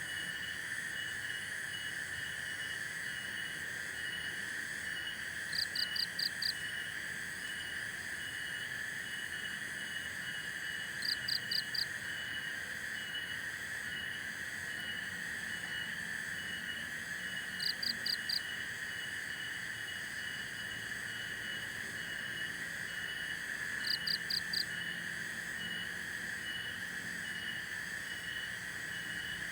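Night chorus of insects and frogs: a steady high drone with a regular pulsing chirp, broken about every six seconds by a loud call of four quick notes.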